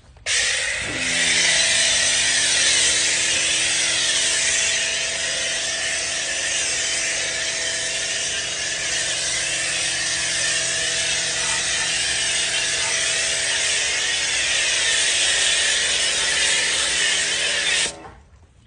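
Truck-wash pre-wash being sprayed under pressure onto a truck: a loud, steady hiss with a steady machine hum of several tones under it. The hum joins about a second in, and both cut off suddenly near the end.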